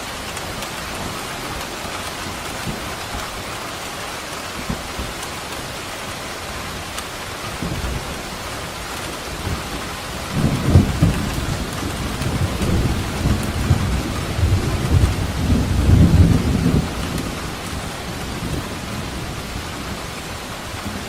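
Steady rain falling, with a roll of thunder rumbling in about halfway through, loudest a few seconds later and fading out after about seven seconds.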